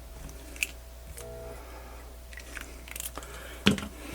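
Small clicks and taps of tools and parts being handled on a workbench, with a louder knock near the end.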